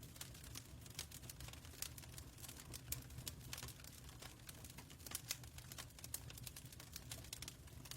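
Fireplace fire crackling, with irregular small pops and snaps over a soft low rumble.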